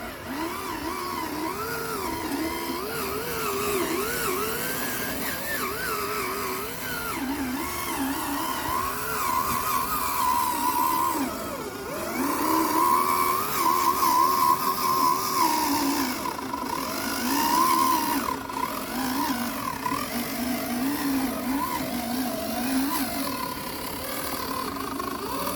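RC truck motor and drivetrain whining while being driven, the pitch rising and falling with the throttle.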